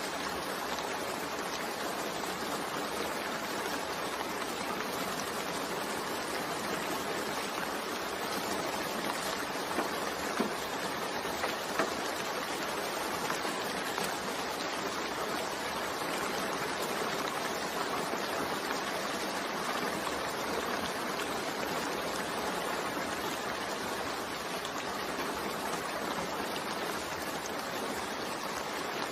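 Steady rain falling, an even hiss with a few louder drips about ten to twelve seconds in.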